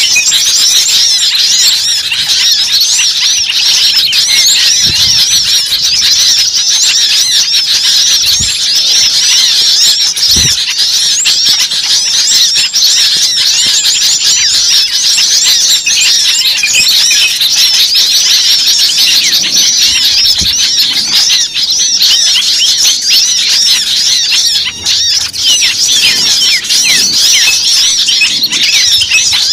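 Many small birds chirping at once: a dense, continuous chatter of high, overlapping chirps.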